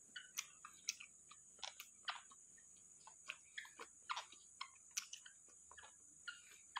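Faint, irregular wet clicks and smacks of a mouth chewing balut, about three a second.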